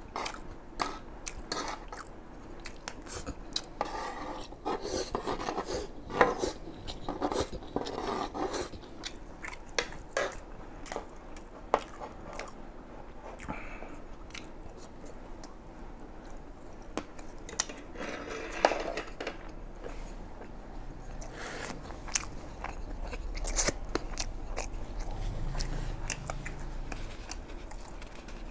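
A person chewing and biting on fried rice and Chinese sausage, with many small clicks and scrapes from a wooden spoon and a fork working against a tray.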